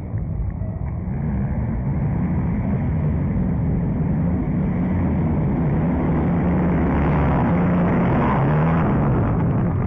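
Motocross motorcycle engines revving on and off, growing louder over the first few seconds and loudest near the end.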